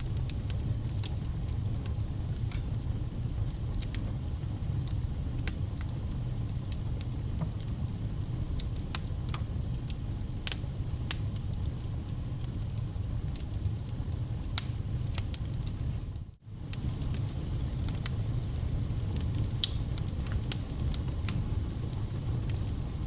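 Wood campfire burning: a steady low rumble of flames with frequent sharp crackles and pops from the burning logs. The sound cuts out for a split second about two-thirds of the way through.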